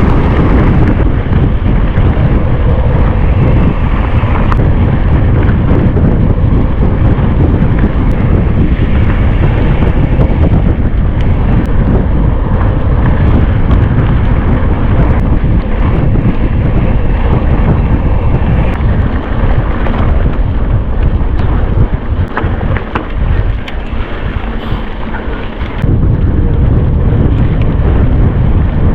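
Heavy wind buffeting on a camera microphone while mountain biking at speed, with scattered clicks and rattles from the bike on the trail. The rumble eases for a few seconds about three-quarters of the way through, then comes back.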